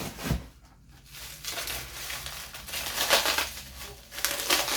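Packaging crinkling and rustling as new crockery is unwrapped by hand, in uneven bursts with a louder rustle about three seconds in.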